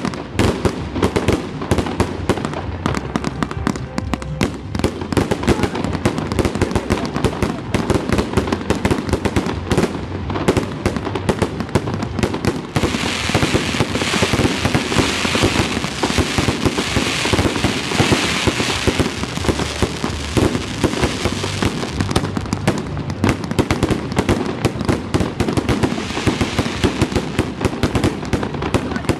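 Fireworks display: aerial shells bursting in a rapid, unbroken barrage of bangs and pops, with a stretch of dense crackling hiss from about 13 to 19 seconds in.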